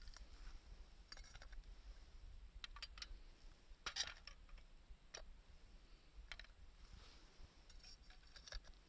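Faint, scattered sharp clicks and crackles at irregular intervals, the loudest about four seconds in, over a low background rumble.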